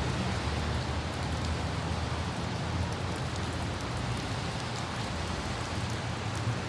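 Light rain falling steadily with scattered droplet ticks, over a steady low rumble of city traffic and wind.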